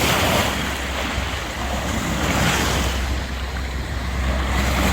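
Strong sea waves breaking and washing through the surf, swelling and easing, with wind buffeting the microphone as a low rumble.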